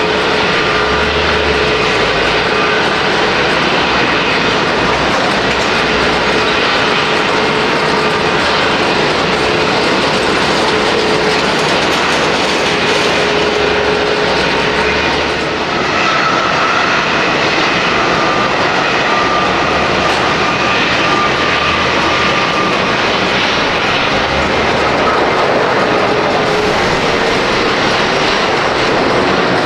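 Jet airliner engines producing a loud, steady roar with a thin whine running through it.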